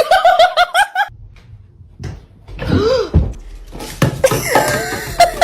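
A burst of rapid, high-pitched laughter, followed by a single vocal sound that rises and falls in pitch and a noisy stretch near the end.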